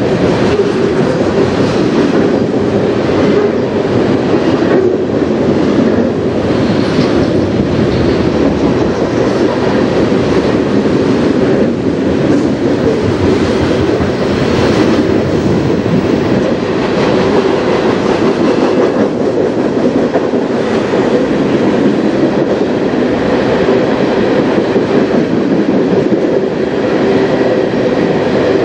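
Freight cars of a mixed train (autoracks, scrap-metal gondolas and tank cars) rolling past close by: a steady loud rumble of steel wheels on rail, with uneven clacks as the wheels cross rail joints.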